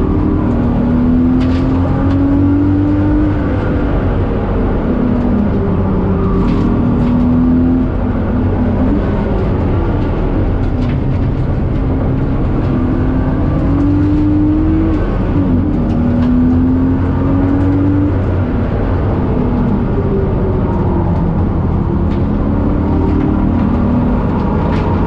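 BMW E36 325i's 2.5-litre straight-six at full throttle on track, heard from inside the cabin. The engine note climbs in pitch again and again, falling back between climbs as the car shifts and brakes into corners, over a constant din of road noise.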